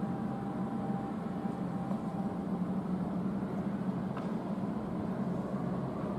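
P2000 light-rail train running with a steady low hum and rumble, a faint higher whine fading out about two and a half seconds in. A single brief click about four seconds in.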